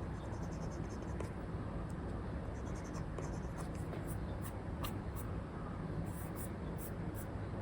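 Apple Pencil stylus with an Elecom nib scratching in short strokes on a paper-like screen film over an iPad, a run of quick strokes near the end, over a steady low background hiss.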